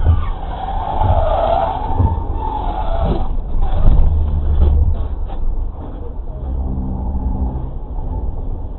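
Car engine and road noise heard through a dashcam, with a few knocks about three to five seconds in.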